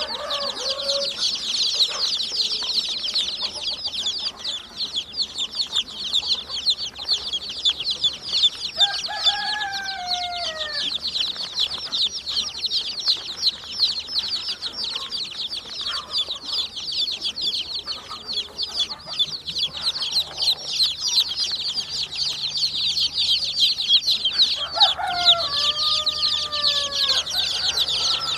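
A large crowd of newly hatched chicks peeping nonstop, a dense high-pitched chorus of countless short chirps. Twice, about nine seconds in and again near the end, a lower, drawn-out call slides down in pitch over the peeping.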